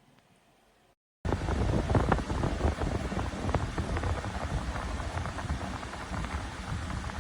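Bosch Cool 2000 portable air conditioner running: a steady rush of air with crackling, starting suddenly about a second in after a short gap.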